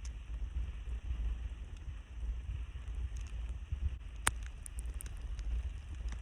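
Wind buffeting the microphone, an uneven low rumble, with a single sharp click about four seconds in.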